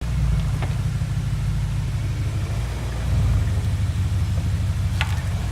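BMW 645Ci's V8 engine running with a steady low rumble, with a short sharp knock about half a second in and a louder one near the end. The owner hears this knocking when pulling away forwards or backwards and is unsure whether it comes from the SMG gearbox, its hydraulic cylinder, the clutch or the flywheel.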